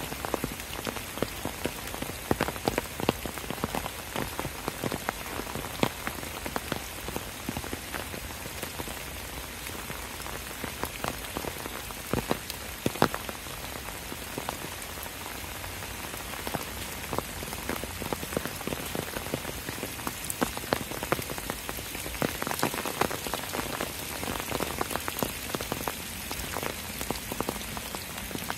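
Steady rain falling, an even patter with many sharp, separate drops heard close by.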